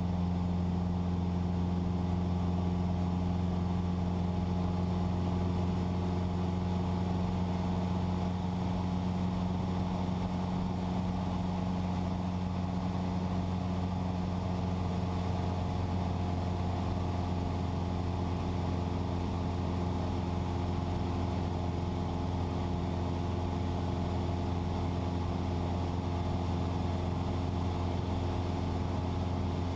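Cessna 172's piston engine and propeller droning steadily at constant power, heard inside the cabin.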